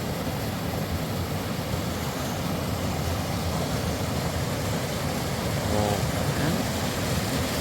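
A vehicle's engine running steadily with road noise, with a short voice about six seconds in.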